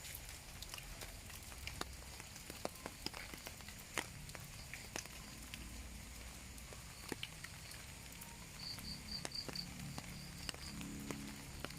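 Rain falling, with scattered sharp drips and clicks of raindrops over a faint steady patter. About nine seconds in, a short run of about five high chirps.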